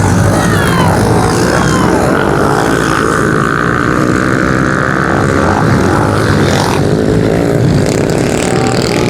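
Several pit bike engines racing together, their pitch rising and falling as the riders rev and shift, with one higher steady note held for a few seconds near the middle.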